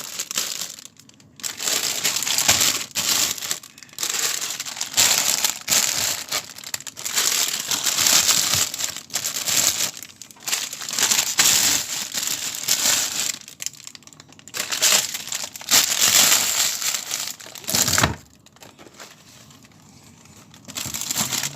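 Wrapped packets of cakes and biscuits crinkling and rustling in irregular bursts as they are handled; the rustling stops about eighteen seconds in.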